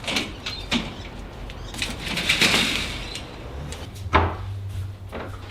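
Kitchen handling sounds: a cupboard or door is opened and shut, with a few light clicks, a rushing swish about two seconds in and a sharp knock a little after four seconds. A low steady hum sets in near the knock.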